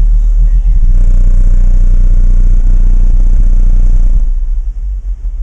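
Two FI Audio 15-inch subwoofers in a car playing very loud deep bass. From about a second in it gets heavier and buzzier, then eases off a little after four seconds.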